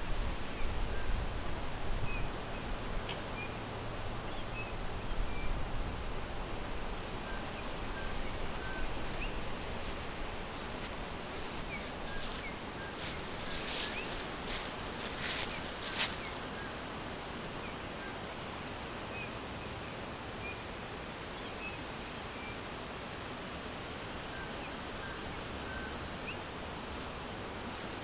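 Forest ambience: a steady hiss with small birds giving short, faint chirps here and there. About halfway through comes a run of crisp rustles and clicks, and a low rumble sits under the first few seconds.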